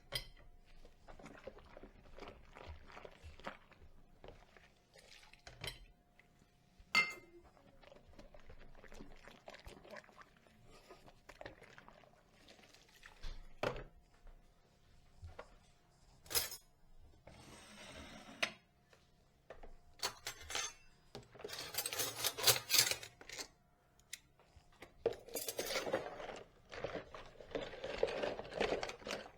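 Dishes being washed by hand: plates, cutlery and pots clinking and knocking against each other at irregular intervals. There are several longer spells of rushing noise, the longest near the end.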